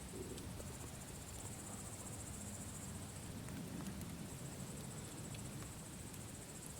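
Campfire burning with scattered sharp crackles over a low rush, and crickets trilling steadily in a high band.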